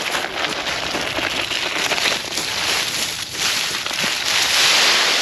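Dry fallen leaves rustling and crunching as they are thrashed about in a leaf pile, a dense crackle that swells loudest near the end.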